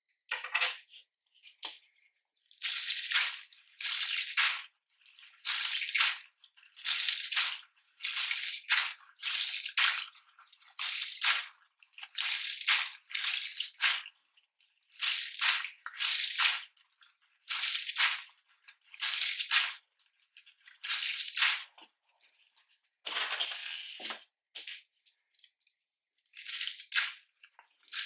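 Slime being squished and kneaded by hand: a series of short wet squelches, about one a second, with a brief pause near the end.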